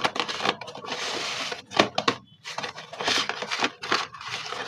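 Dry slate pencils crunching and scraping as they are cleaned: irregular gritty scratching with sharp cracks, and a longer scratch about a second in.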